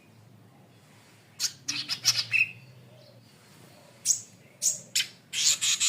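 Golden-headed cisticola (cici padi kepala merah) calling in short, sharp, high notes: a quick cluster about a second and a half in, then another run of notes from about four seconds in.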